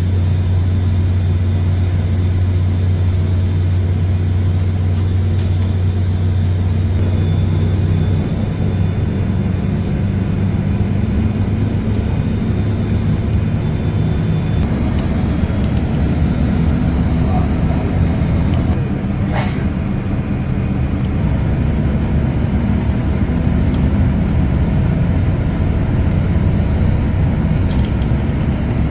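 Train running with a steady low hum and rumble; the hum changes about eight seconds in.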